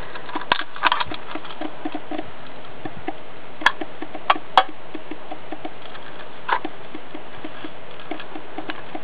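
Rain pattering and dripping as a steady patter of many small irregular ticks. A few sharper clicks stand out, three about four seconds in and one a couple of seconds later.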